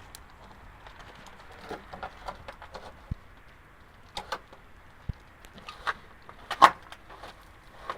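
Scattered clicks and knocks of hand work on a truck in a repair workshop, with one louder knock about two-thirds of the way through.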